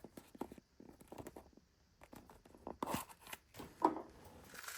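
Light handling noises at a table: scattered small clicks and rustles as a pocket knife is turned over and handled, with two louder knocks about three and four seconds in.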